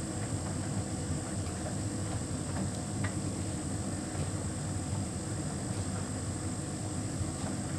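Hotpoint heat pump tumble dryer running mid-cycle with a big load: a steady drum-and-compressor hum with a thin high whine, and a few faint ticks from the tumbling load.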